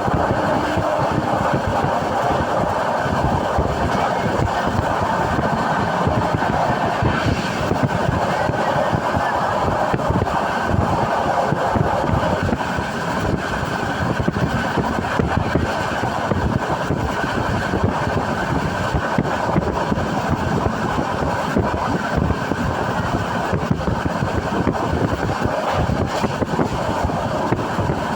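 Passenger train running at speed, heard from inside the coach: a steady rumble and rattle.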